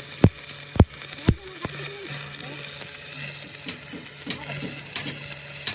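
Electric arc welding crackling steadily over a low hum, on a truck axle tube under repair. Four sharp knocks come in the first two seconds.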